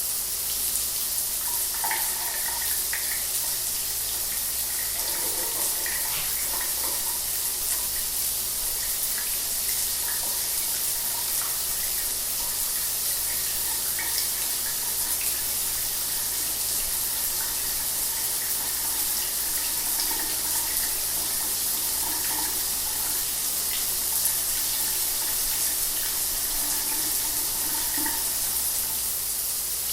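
Shower water running steadily, a continuous hiss of spray with no change in level.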